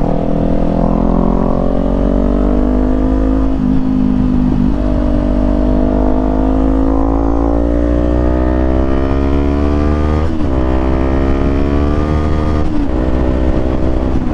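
Kawasaki Z400 parallel-twin with an aftermarket exhaust pulling under acceleration, its pitch climbing steadily, with brief drops and re-climbs about 4, 10 and 13 seconds in.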